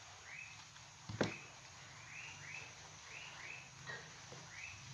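A bird chirping faintly in the background, short chirps mostly in pairs, each rising and falling in pitch, repeated steadily. One sharp click about a second in.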